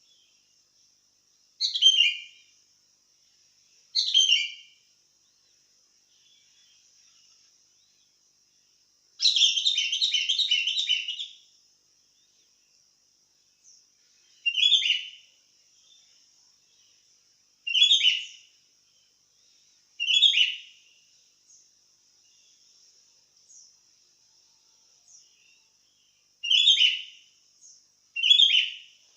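Sooty-headed bulbul (kutilang) singing short phrases of a few notes every two to three seconds, with one longer chattering phrase about nine seconds in. A faint steady high hiss runs underneath.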